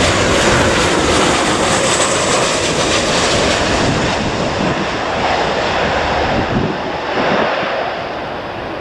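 Airliner's engines passing close by at the airport, a loud, steady rush of engine noise that slowly fades toward the end.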